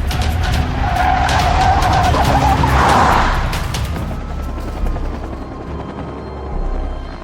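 A car speeding with tyres squealing, amid a quick run of sharp cracks. The sound peaks in a loud noisy burst about three seconds in, then gives way to tense score music with slow gliding tones.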